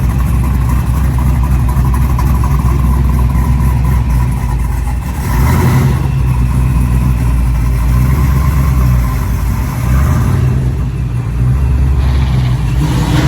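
A big car engine running with a deep, steady exhaust note, which shifts about five seconds in and again around ten seconds in.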